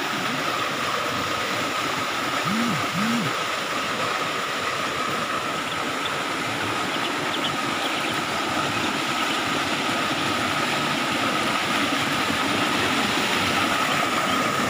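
Steady rush of water flowing through trout-farm ponds and channels, with a thin steady high tone beneath it.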